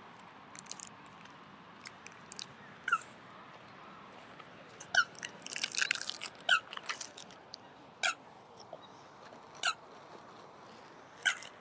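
Short, high, squeaky calls from a bird, repeating about every second and a half in the second half, with a brief flurry of them near the middle.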